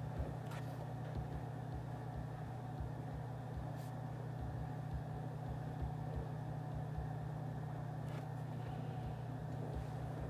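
Steady low hum of background ambience, with a few faint clicks.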